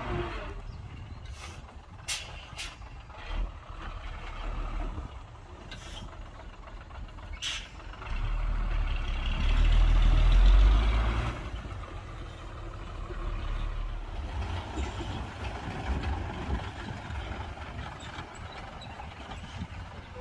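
Heavy diesel engines of dump trucks and a bulldozer working, a low rumble that swells louder for a few seconds around the middle. A few short sharp hisses come in the first eight seconds.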